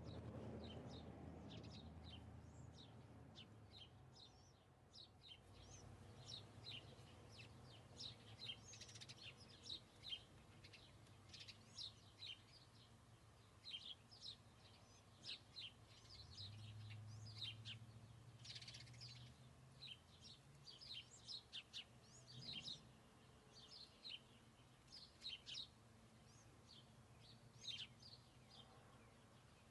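Faint, busy chirping of small birds, many short high calls tumbling over one another, with a faint low hum underneath.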